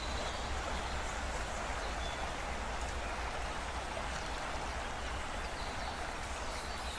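Steady rain-like rushing hiss with a low rumble underneath: the ambient intro of a music video, before the music proper comes in.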